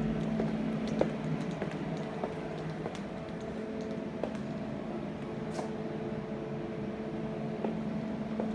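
Dehumidifiers running with a steady, even hum, with a few light scattered taps.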